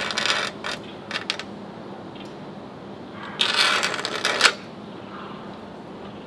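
Utility knife blade drawn along a pencil line on a wooden board to score it against chip-out: a few short scratchy scrapes in the first second and one longer scoring stroke of about a second a little past the middle.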